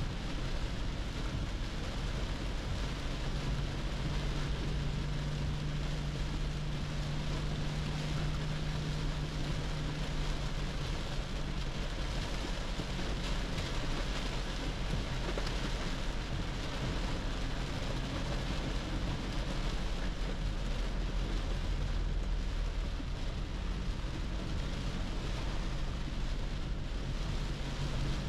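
Inside the cab of a 2010 Toyota Hilux pickup at highway speed in heavy rain: steady rain noise on the roof and windscreen and tyre spray from the wet road, over a low engine and road hum.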